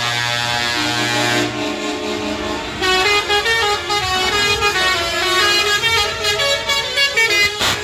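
Truck horns honking: one steady horn blast for about the first second and a half, then from about three seconds in a fast run of changing horn notes, like a melody horn, with a short blast near the end.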